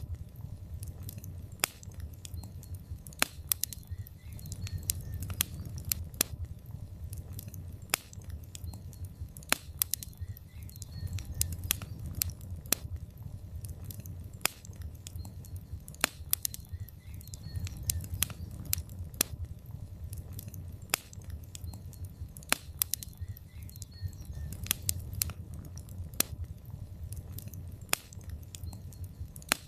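Logs burning in a fireplace: irregular sharp crackles and pops, several a second, over a steady low rumble of the fire.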